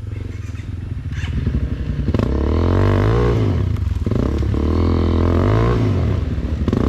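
Off-road vehicle engine working hard under load, revving up and falling back twice over a steady low running rumble.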